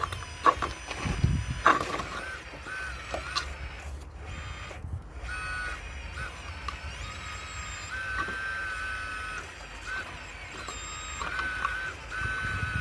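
Radio-controlled Caterpillar excavator model's electric drive whining in short on-and-off spells as its controls are worked, with two sharp knocks of stone in the first two seconds.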